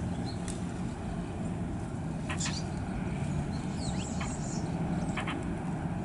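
Scattered short calls of small birds in alarm: a few sharp chirps and one falling note, over a steady low rumble.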